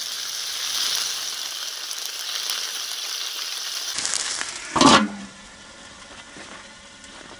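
Turkey cutlets sizzling in oil on a steel saj pan made from a harrow disc. Near the middle there is one short loud knock with a brief ring, and after it the sizzle is quieter.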